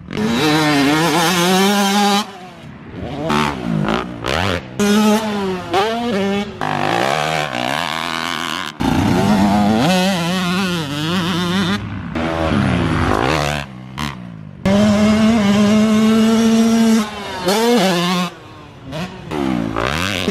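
Dirt bike engine revving up and down as it is ridden hard, its pitch rising and falling again and again, with the sound dropping out abruptly several times.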